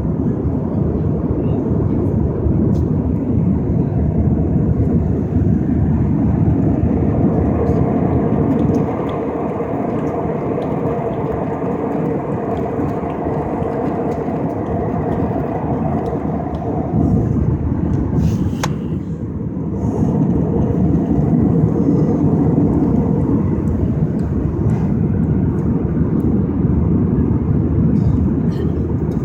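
Steady cabin noise of an airliner, from its jet engines and the air rushing past the fuselage, heard from inside the passenger cabin. The level drops a little about nine seconds in and rises again a few seconds later.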